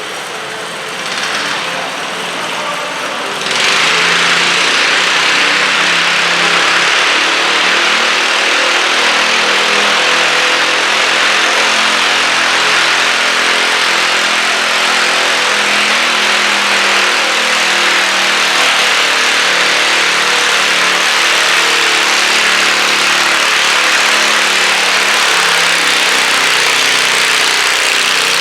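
Garden tractor engine running at full throttle during a stock-class pull, rising sharply in level about three and a half seconds in and then holding steady and loud.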